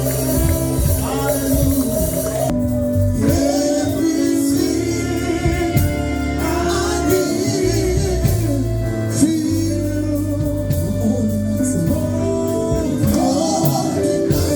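Live gospel worship music: a band with bass and drums, with singing.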